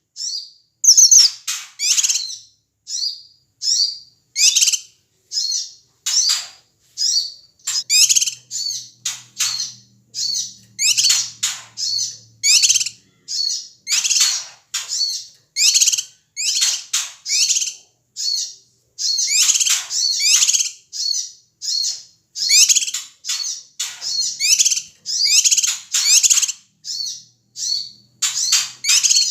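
Cucak kinoi, a leafbird, calling noisily in a fast run of short, sharp, downward-sweeping notes, about two a second with brief gaps between them.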